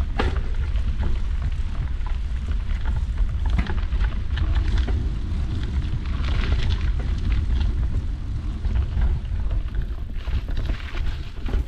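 Wind buffeting the action-camera microphone while riding a mountain bike, with a steady low rumble and scattered clicks and rattles from the bike and tyres on the rough trail.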